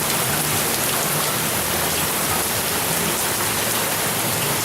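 Heavy rain falling steadily on a deck and the ground around it.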